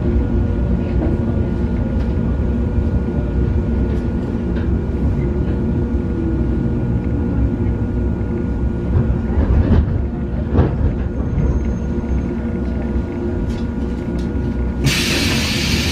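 Cabin sound of a local electric train slowing to a stop at a platform: a steady rumble of the running gear with a faint falling whine and a few short clicks, then a sudden loud hiss of air about a second before the end.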